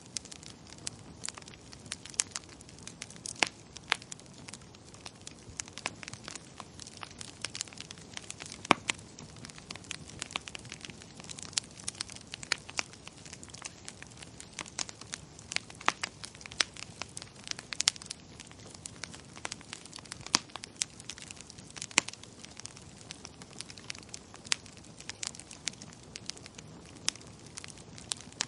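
Wood fire crackling in a fireplace: irregular sharp pops and snaps, several a second and some much louder than others, over a soft steady hiss.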